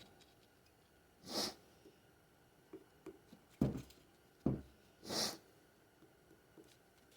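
Quiet handling of transmission parts: a few soft knocks and small clicks, with two short breathy hisses about four seconds apart, the first about a second in.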